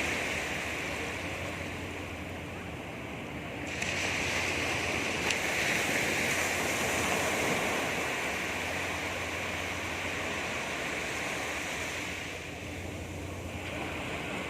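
Sea waves breaking and washing up a beach: a steady rushing that swells about four seconds in and eases near the end.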